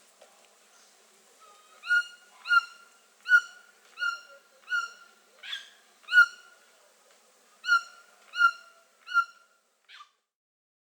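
A bird calling repeatedly: about a dozen short calls, all alike and on the same pitch, roughly one every two-thirds of a second, beginning about two seconds in and stopping a second or so before the end.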